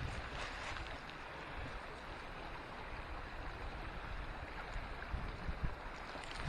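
Steady rush of a small creek's running water, with wind gusting on the microphone.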